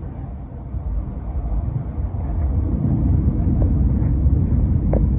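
Cabin noise inside an Airbus A321neo: a steady low rumble of its CFM LEAP-1A engines and the airflow, which swells for a couple of seconds midway.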